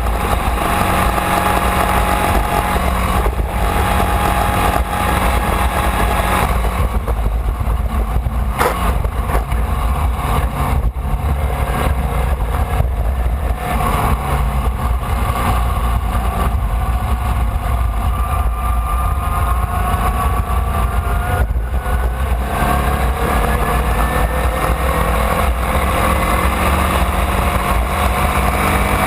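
Onboard sound of a Formula Vee race car's air-cooled Volkswagen flat-four engine running hard at racing speed, its pitch dropping and picking up through the corners and climbing steadily over the last several seconds as the car accelerates.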